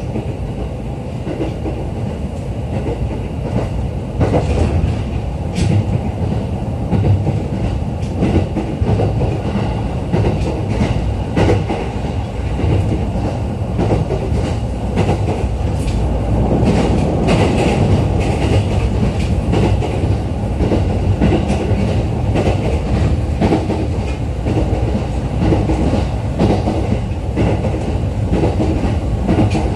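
Interior running sound of a JR East E531 series electric train car at speed: a steady rumble with wheels clicking over the rail joints.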